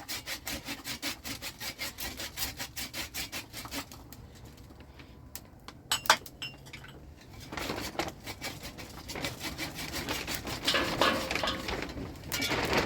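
Rapid, rhythmic scraping strokes of a hand tool on wood, stopping about four seconds in. A sharp knock comes near six seconds, then more irregular scraping and rustling from about eight seconds on.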